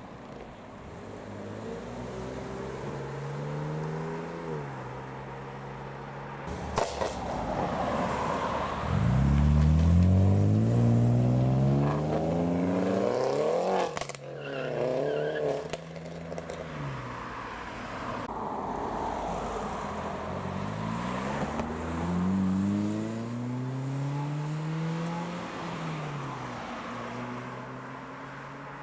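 A succession of modified BMW cars accelerating away, each engine note rising in pitch and dropping back at gear changes. The loudest pull comes about nine to fourteen seconds in, and there are sharp cracks near seven and fourteen seconds.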